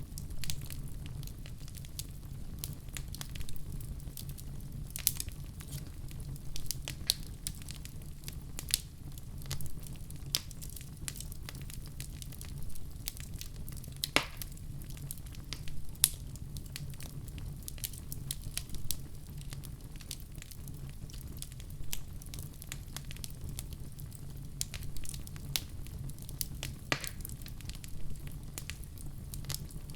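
Wood fire crackling in a fireplace: a steady low rumble of flames with scattered sharp pops and snaps, a few of them louder.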